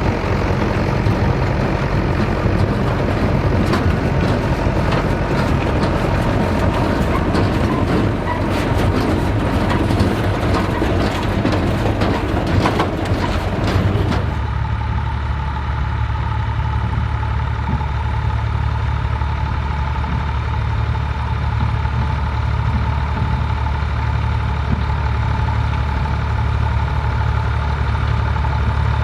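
Vintage tractor engine running, with rapid clicking and knocking from working machinery over it for the first half. About halfway through the clatter stops abruptly and only a steady low engine drone remains.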